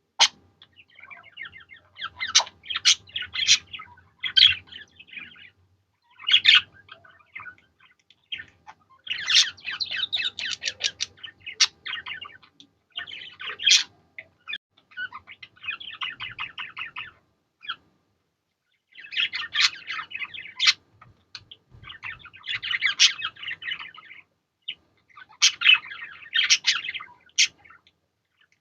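Budgerigars chattering and warbling in bouts of rapid chirps and clicks, with short pauses between bouts.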